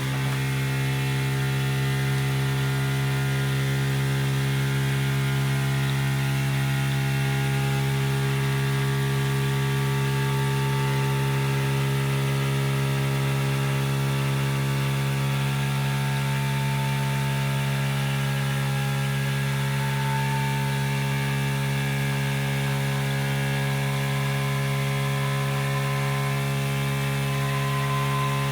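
Aidoo 1 kg mini washing machine's direct-drive motor running steadily at speed, a constant buzzing hum with a fainter high whine above it. It comes on abruptly just after the drain.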